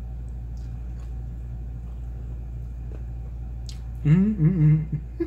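Faint mouth sounds of a man chewing a large shrimp, a few soft clicks, over a steady low hum. About four seconds in, he gives a loud closed-mouth 'mmm' of enjoyment.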